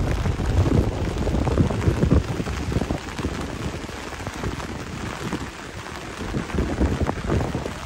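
Heavy rain beating on an umbrella held overhead: a dense, uneven spatter of drops, a little lighter in the middle few seconds.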